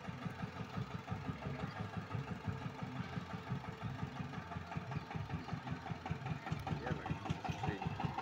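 Changfa single-cylinder diesel engine of a motor van running with a steady, even thudding beat.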